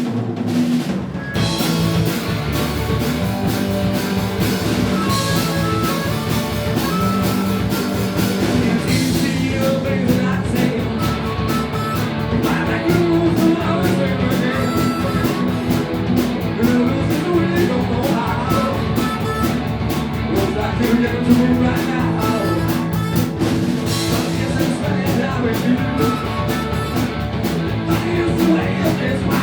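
Live rock band playing a song, kicking in all at once at the start and carrying on at a steady full level.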